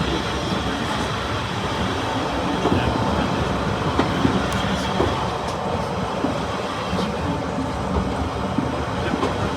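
Steady rumble of a diesel-hauled heritage train heard from aboard, with scattered light clicks and knocks.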